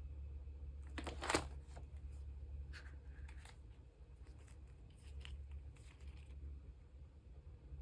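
Photocards and clear plastic sleeves being handled: scattered light clicks and scratchy plastic rustles, with one brief louder rustle about a second in, over a steady low hum.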